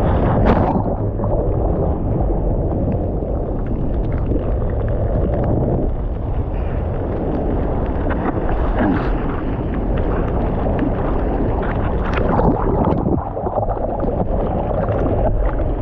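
Wind buffeting the microphone over rushing, churning water, with uneven surges and a sharper burst about half a second in.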